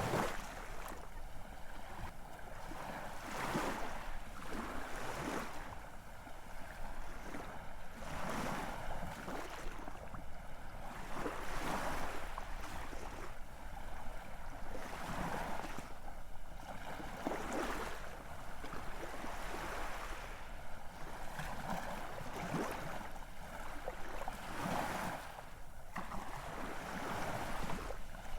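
Ocean surf: waves washing in one after another, swelling and easing every two to three seconds.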